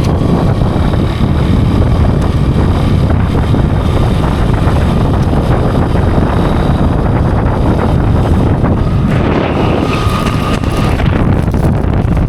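Loud, steady wind noise buffeting the microphone, a dense low rumble with no clear engine note.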